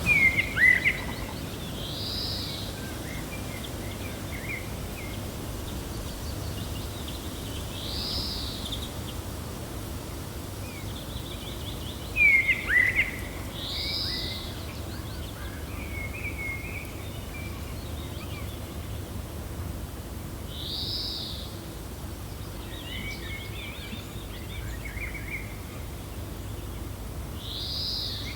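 Steady wind noise with birds calling over it: a short rising-and-falling call repeats about every six seconds, and two louder downward-sliding calls come near the start and about twelve seconds in.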